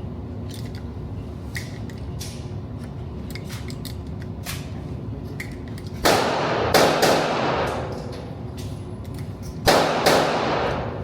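Gunshots at a shooting range: a quick string of about three shots a little past halfway, then two more near the end, each with a long ringing tail. Fainter sharp clicks and pops run throughout.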